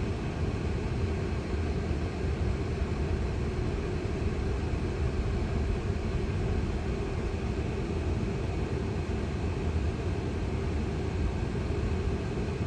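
Steady low rumble of road and tyre noise inside a Tesla electric car's cabin as it rolls along.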